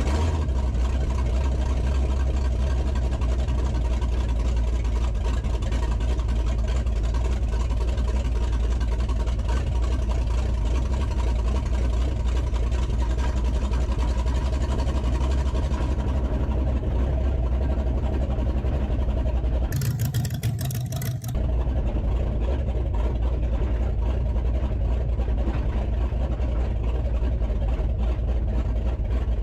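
A vehicle driving, with a steady low engine and road drone. The sound changes briefly for about a second and a half, around twenty seconds in.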